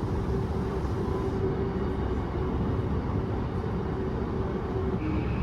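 Inside a moving Yokosuka Line commuter train: steady rumble of the car running on the rails, with a steady hum. A higher steady whine joins near the end.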